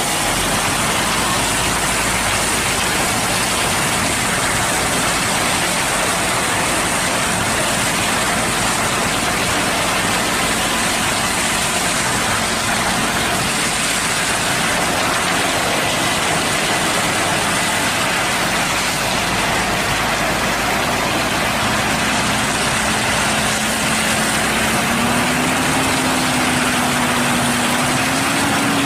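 A heavy diesel engine on a cement mixer truck running steadily, its engine note climbing gradually over the last several seconds.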